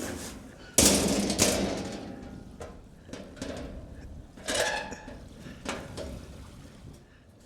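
Metal clanks and knocks from a steel bear-proof food locker being opened and loaded. The loudest clank comes about a second in and rings briefly, followed by a series of lighter knocks and clatter.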